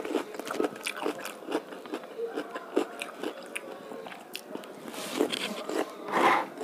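Close-up eating sounds: a person chewing and biting with wet mouth clicks in a steady rhythm of about two to three a second, with crunches of a raw vegetable piece. One louder, longer noisy sound comes about six seconds in.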